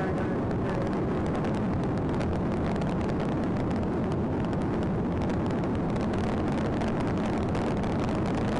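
Sheriff's patrol car driving fast, heard from inside the cabin: a steady rumble of engine, tyres and wind.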